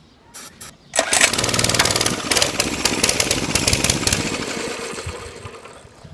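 Mini bike's small engine catching about a second in after a pull and running roughly for a few seconds, then fading away and dying: an engine that has sat for six years, firing but not keeping running.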